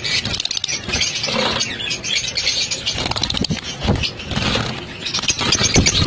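A flock of small pet parrots (lovebirds, cockatiels and budgies) chattering and chirping all at once, a dense high twittering, with some low rustles and knocks mixed in.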